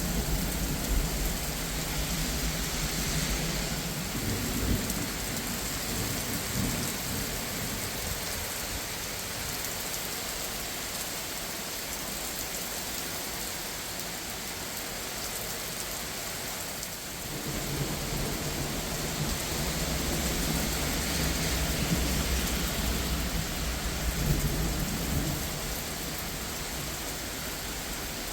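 Steady heavy rain hissing, with rolling thunder rumbling low during the first few seconds and again for several seconds from about two-thirds of the way through.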